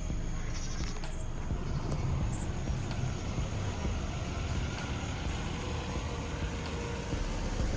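A vehicle engine running steadily, a low-pitched sound that holds even throughout.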